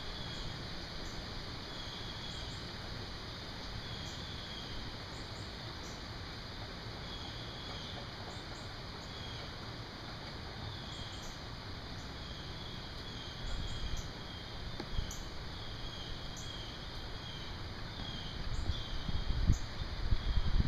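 Outdoor summer insect chorus, a steady high buzz, with short bird or insect chirps repeating every second or so. Low rumbles come in over the last several seconds.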